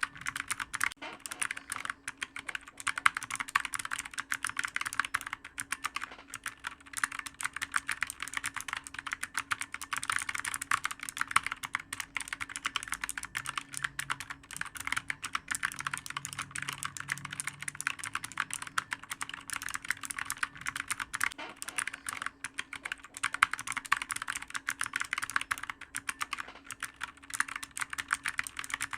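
Continuous fast typing on a clicky computer keyboard: a dense, unbroken stream of key clicks, with now and then a louder keystroke standing out.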